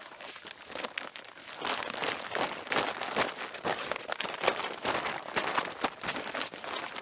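Irregular crinkling and rustling of something being handled, with many short crackles that grow busier after the first second or two.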